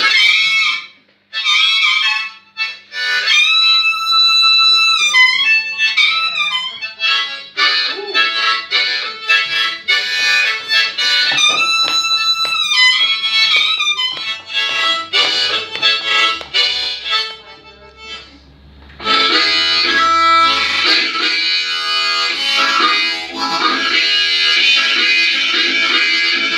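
Blues harmonica solo in a railroad-blues style: held chords that bend in pitch, broken by quick choppy phrases. About 19 s in the playing becomes a denser, fuller rhythmic wash of chords.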